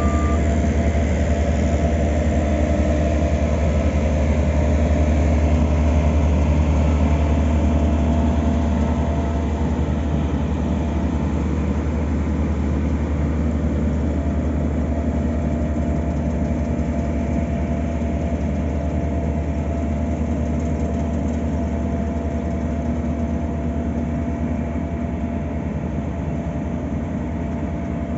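Heavy diesel road-paving machinery running steadily at a low, even hum, with a single reversing beep right at the start.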